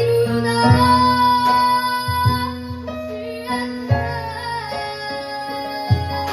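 Live kids' band playing a slow song: a child singer holding long notes over keyboard, with a drum hit about every second and a half.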